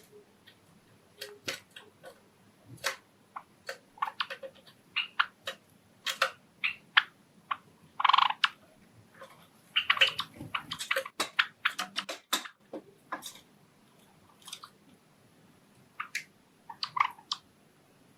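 Pet Java sparrows making short, scattered chirps mixed with small clicks and taps, busiest in the middle, with one louder, longer call about eight seconds in.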